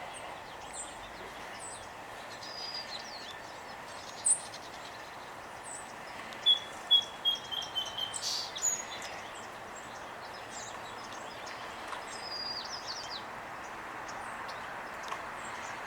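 Small songbirds chirping and calling at scattered moments over steady background noise, with a quick run of short descending notes about six to eight seconds in.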